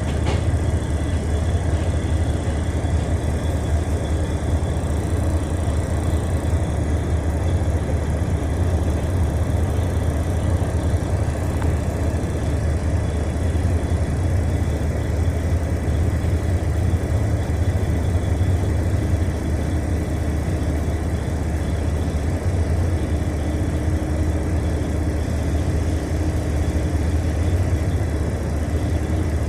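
Diesel engine of a log-delimbing machine running steadily, a constant low engine drone.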